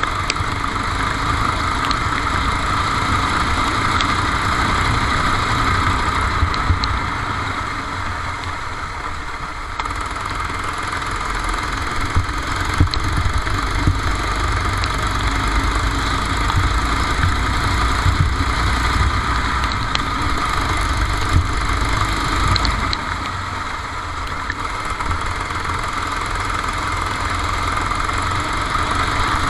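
Kart engine running continuously, heard onboard, with a steady drone and two brief dips in level partway through and near the end.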